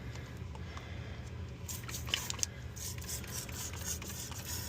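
Plastic rustling and scraping from handling drain pan treatment as it is opened and worked into an AC condensate drain line, starting about two seconds in, over a steady low hum.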